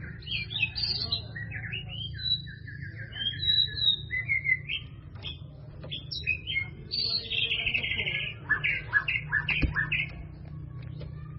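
Bird singing: a varied run of chirps, quick trills and short whistled notes, with a low steady hum underneath.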